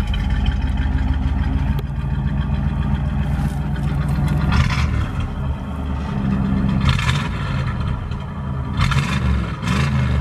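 A loud car engine running with a rough, steady low rumble, revving up briefly about four and a half, seven and nine seconds in.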